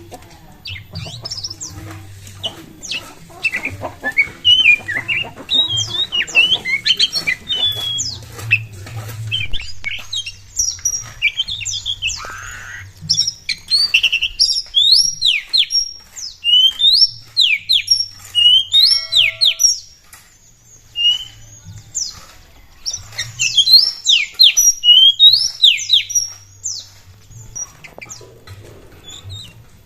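Oriental magpie-robin (kacer) singing a loud, varied song: fast runs of sharp whistled notes and chirps, many of them sliding steeply down in pitch, broken by a short lull around two-thirds of the way through. A low hum is heard faintly underneath.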